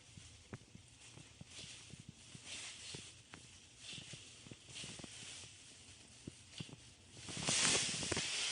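Small clicks and taps of faucet parts being handled, with several short bursts of hissing and a louder, longer hiss near the end.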